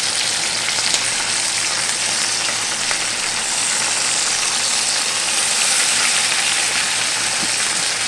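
Stuffed chicken breasts frying in hot oil in a pan, sizzling steadily.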